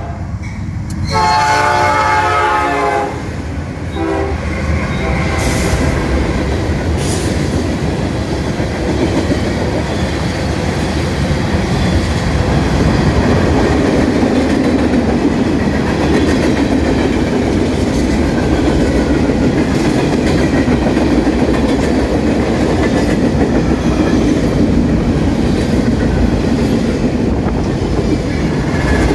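Norfolk Southern train with four locomotives passing. Its air horn sounds about a second in for two seconds, with a short toot near four seconds. Then comes the steady rumble and clickety-clack of the train rolling by.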